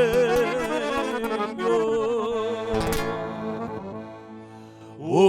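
Slow sung ballad: a singer draws out the word "tenho" in a long wavering note over instrumental accompaniment. The music sinks low about four seconds in, and a new sung note rises just at the end.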